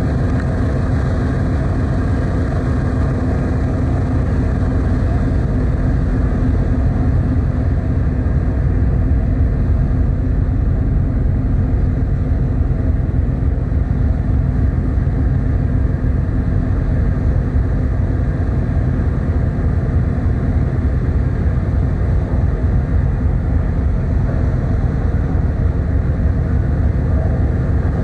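Steady, loud low engine rumble aboard a car ferry, with a few faint steady hums above it. The level holds even throughout.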